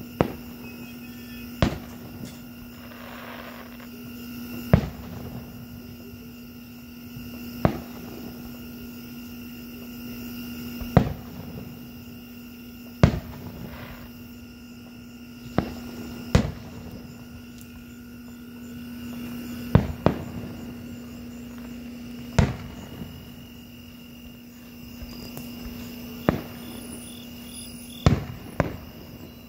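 Aerial fireworks bursting: about fourteen sharp bangs at uneven intervals, mostly two to three seconds apart, some with a rumbling tail, over a steady hum.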